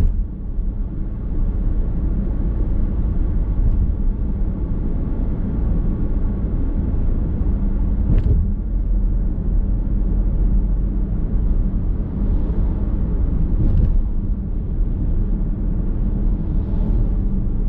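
Car driving heard from inside the cabin: a steady low road rumble and tyre noise, with a couple of faint ticks partway through.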